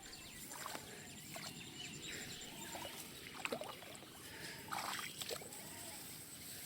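Faint water splashing and sloshing, with a few short clicks and splashes scattered through.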